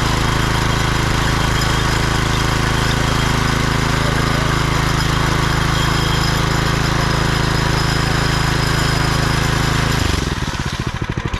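Small petrol engine of a power trowel running steadily at working speed, then throttling back about ten seconds in to a slower, uneven idle with separate firing beats.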